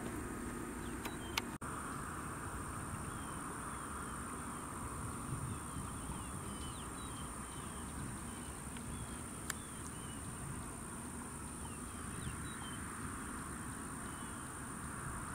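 Outdoor ambience: a bird giving runs of short, high, downward chirps, over a steady high-pitched insect drone and a steady low background rumble. No helicopter rotor noise.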